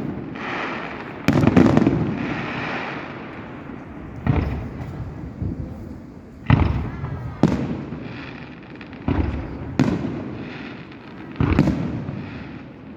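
Aerial fireworks bursting: about eight loud bangs, one every second or two, each trailing off in a long rolling echo and crackle.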